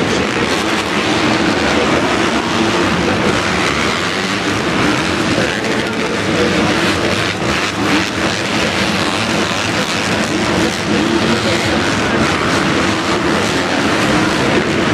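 Motocross bikes racing, several engines running together in a loud, steady wash of noise with wavering engine pitches.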